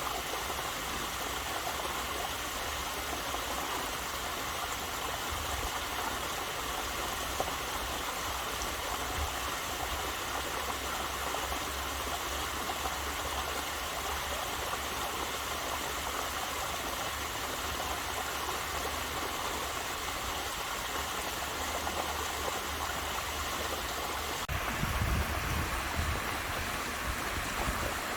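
Steady rushing of water from a waterfall and stream, with a few low rumbling bursts near the end.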